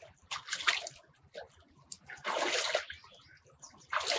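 Water sloshing and splashing in three short bursts, with brief pauses between them.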